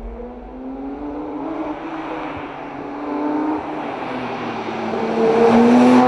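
Porsche 911 GT3 S/C's 4.0-litre naturally aspirated flat-six engine revving, its pitch rising and falling and building to its loudest near the end.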